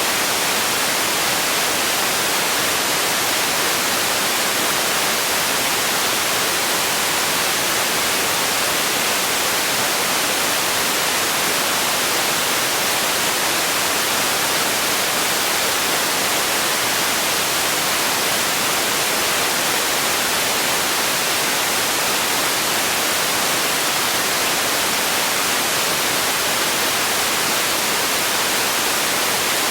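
Steady white noise, an even hiss like static with most of its energy in the high end. It is unchanging throughout.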